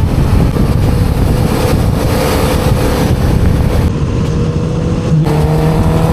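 Motorcycle riding along, the engine running steadily under heavy wind rush on the helmet microphone; about five seconds in the engine note shifts to a new, lower-sounding set of tones.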